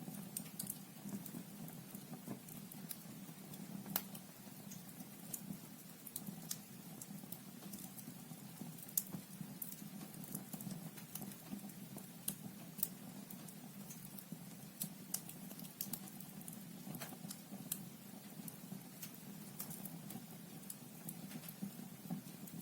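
Wood fire burning in a fireplace, logs crackling with irregular sharp pops over a low steady rumble of flame.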